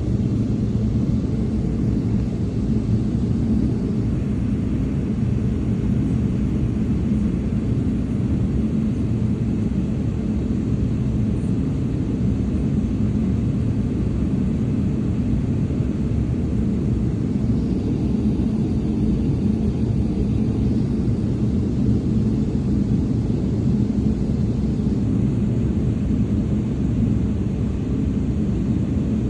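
Steady low rumble of an airplane, even throughout with no rise or fall, with a faint hum of steady tones underneath.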